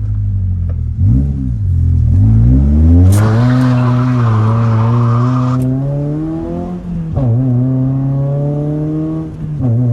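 Toyota Celica GT-S's 2ZZ-GE four-cylinder engine under hard acceleration: the revs climb, hold high, drop suddenly at a gear change about seven seconds in, then climb again. A loud hiss rides over the engine for about two and a half seconds from about three seconds in.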